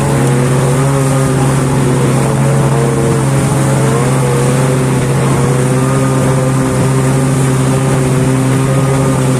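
Snowmobile engine with a modified muffler running at a steady speed while under way: a loud, even drone whose pitch wavers only slightly.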